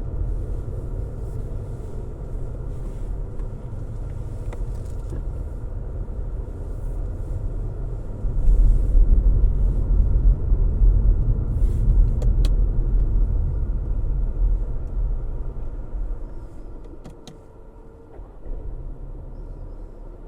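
A car driving, with a steady low rumble of road and engine noise. The rumble gets louder about eight seconds in, then eases off near the end, with a few faint ticks.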